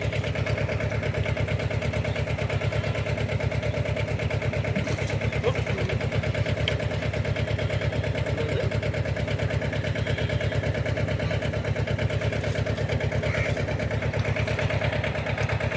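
Mahindra 24 HP mini tractor's diesel engine running steadily at constant speed, with an even, fast firing beat.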